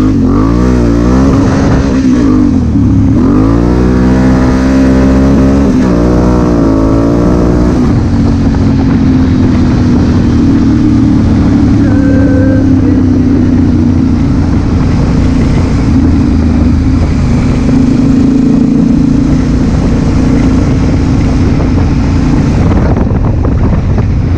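Honda Africa Twin CRF1000L's parallel-twin engine, revving up and dropping back in pitch several times over the first eight seconds. It then runs at a steady cruising pitch under a constant rush of noise.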